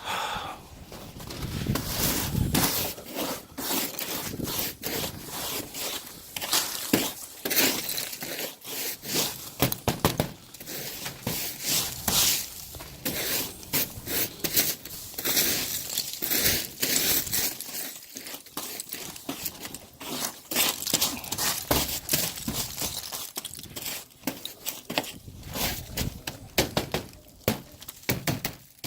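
A brush sweeping snow and ice off a pigeon loft: a run of irregular scraping and crunching strokes.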